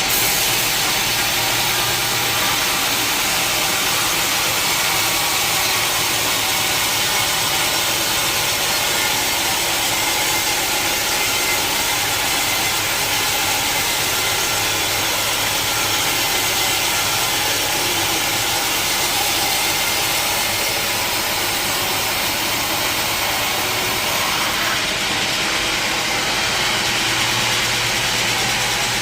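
Sawmill wheel saw running steadily through a log: a continuous loud mechanical whir with a constant low hum underneath.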